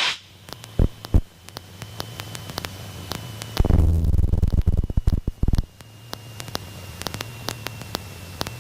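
Aircraft intercom feed carrying faint hiss with scattered clicks and a thin steady high tone. A burst of low rumbling noise comes in about three and a half seconds in and lasts about two seconds.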